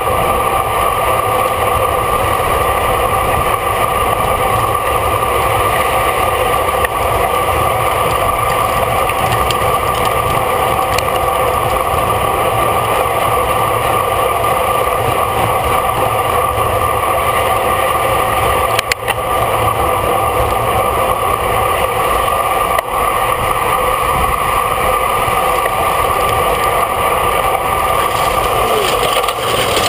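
Racing bicycle riding at speed: steady rush of wind and road noise with a constant hum from the tyres and drivetrain.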